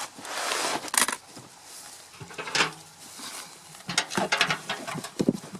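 Soil and compost rustling and scraping while sweet potatoes are dug out by hand and handled. There are sharp knocks and clicks about a second in, again midway, and a quick cluster near the end.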